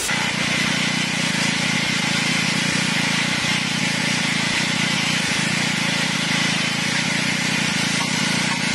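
A machine or engine running steadily, with an even, unbroken noise.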